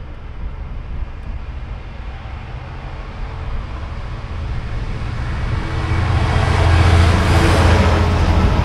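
Freightliner diesel freight locomotive hauling container wagons, approaching and passing. It grows steadily louder, with a deep engine hum and rising rail noise that become loudest over the last few seconds.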